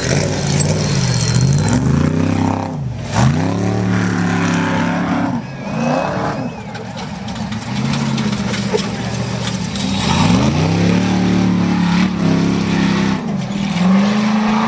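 Off-road race truck engines revving hard as the trucks accelerate past, engine pitch dipping and then climbing steeply twice, about two and a half seconds in and again about ten seconds in.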